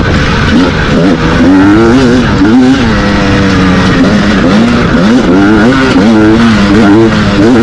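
Two-stroke dirt bike engines revving hard, the pitch repeatedly rising and falling as the throttle is worked.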